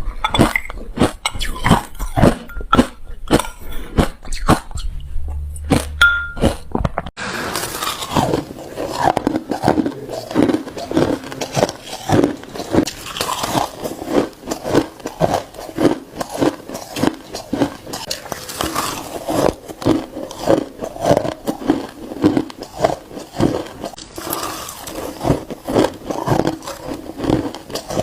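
Ice being bitten and crunched close to the microphone: a fast run of crunches, sharp and separate at first, then about seven seconds in turning to denser, steadier crunching.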